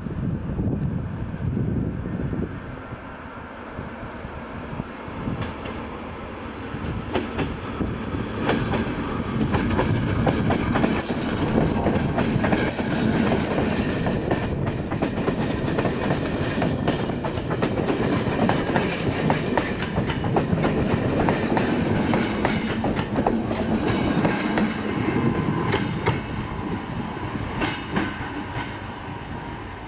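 A train passing, wheels clattering over rail joints over a broad rumble. The sound builds about seven seconds in, stays strong, and eases a little near the end.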